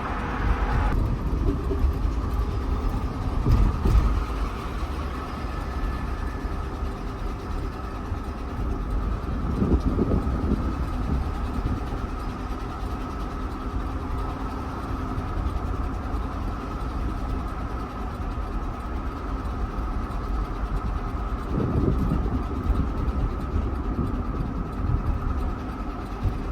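GMC Yukon XL's 5.3-litre V8 running under way with a failing connecting-rod bearing (rod knock). Its steady rumble swells a few times, about 4, 10 and 22 seconds in.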